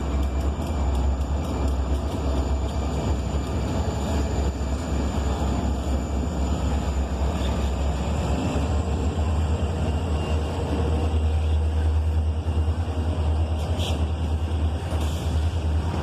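Freight train rolling past, a steady heavy low rumble.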